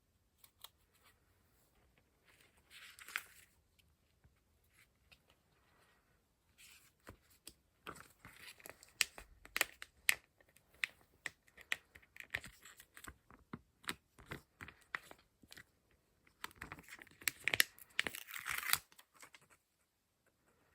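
Paper being handled and torn in short spells of rustling, with many small sharp crackles and taps. The busiest stretches come in the middle and again near the end.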